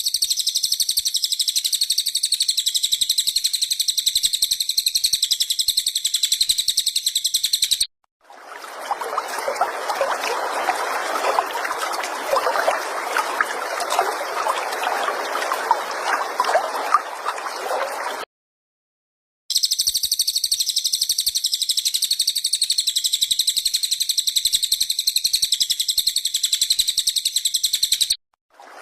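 Recorded cililin birdsong used as masteran material: a rapid, high-pitched chirping trill that runs in two long stretches. Between them comes about ten seconds of crackly trickling-water-like noise.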